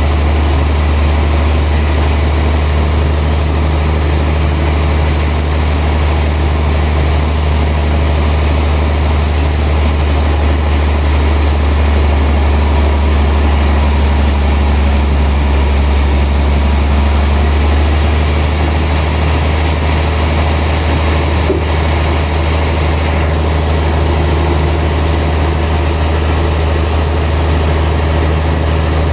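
Sawmill machinery running steadily, a loud, even mechanical drone with a deep hum underneath. The hiss in the high end eases about eighteen seconds in.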